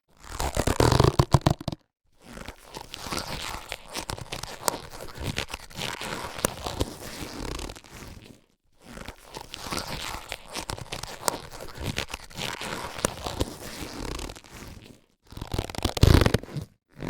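Latex surgical gloves being handled and stretched: rubbery crinkling and crackling in several takes broken by brief silences, with the loudest bursts near the start and near the end.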